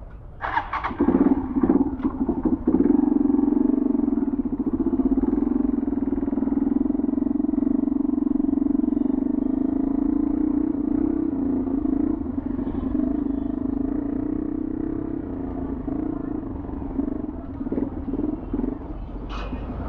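VR150 motorcycle engine starting up and blipped a few times, then idling steadily, with a few more uneven blips of the throttle near the end.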